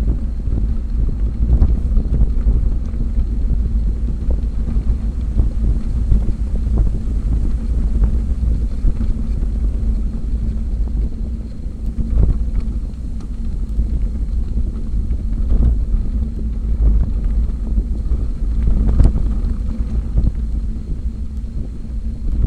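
Wind buffeting the microphone of a camera on a moving bicycle: a loud, steady low rumble, with a few scattered knocks.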